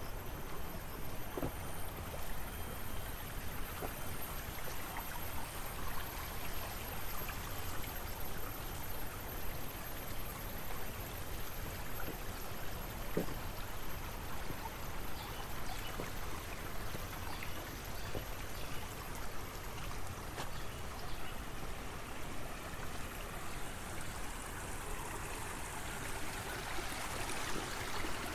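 Water running steadily in an irrigation channel, a continuous rushing and trickling flow, with an occasional light click.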